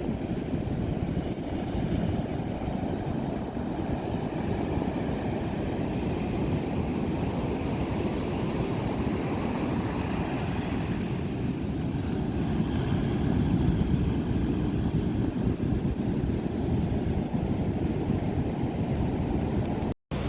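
Large ocean waves breaking, a steady low rumble of surf, with wind buffeting the microphone. The sound cuts out for a moment near the end.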